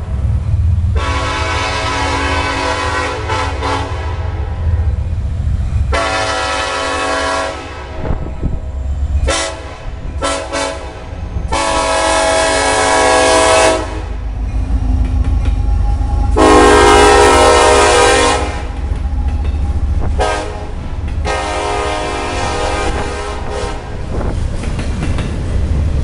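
Multi-chime air horn of a locomotive on a Union Pacific intermodal freight train, played as a long special sequence of about eight blasts: several long ones and a few short toots, the loudest a little past the middle. Under it runs the steady low rumble and wheel clatter of the passing train.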